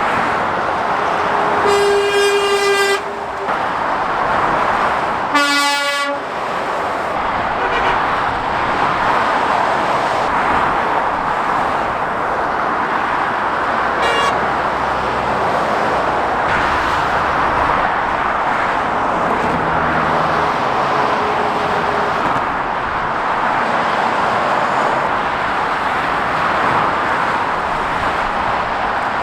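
Steady motorway traffic noise from passing vehicles, with a vehicle horn sounding twice: a held note about two seconds in and a shorter blast about five seconds in. A fainter toot comes around the middle.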